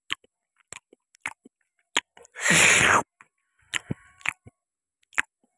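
A person eating juicy watermelon: wet chewing with lip smacks and mouth clicks. About two and a half seconds in comes one louder, longer rushing sound.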